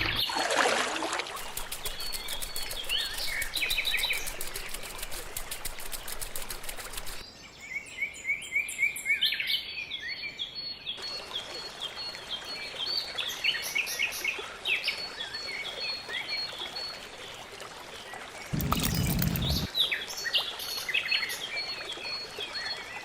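Small birds chirping and calling, with a repeated high note running through, in several segments that change abruptly at cuts. There is a short burst of low noise about three-quarters of the way through.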